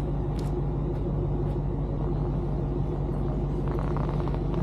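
A motor vehicle's engine running steadily, a low even hum with no change in speed.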